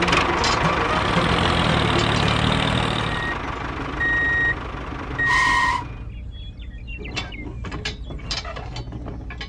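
A toy tractor's small geared electric motor whirring for the first few seconds, then two short electronic beeps, the second one louder. Near the end come light clinks of a small metal chain being hooked onto the tractor.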